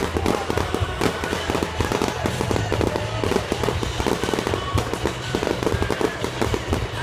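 Aerial fireworks shells bursting in rapid, continuous succession: a dense barrage of bangs and crackles, many per second, with no let-up.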